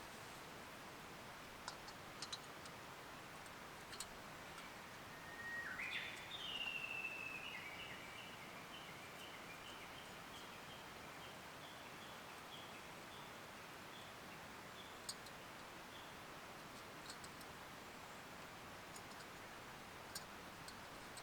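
A bird calls about six seconds in: a short rising whistled note, then a long run of quick repeated notes that slow down and fade over about ten seconds. Faint steady background noise, with a few light clicks scattered through.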